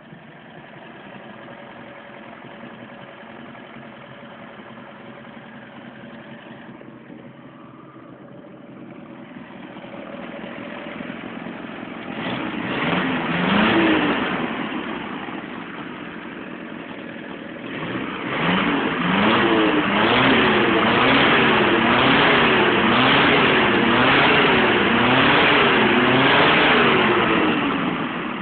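Chevrolet Opala engine idling steadily, revved up and back down once about halfway through, then blipped over and over from about two-thirds in, its pitch rising and falling roughly once a second.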